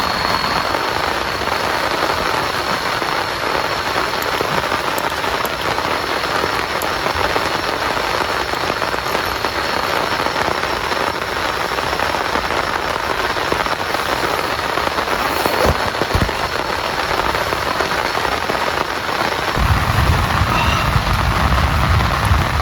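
Heavy rain falling steadily, with scattered sharper drop impacts. Near the end a low rumble joins in.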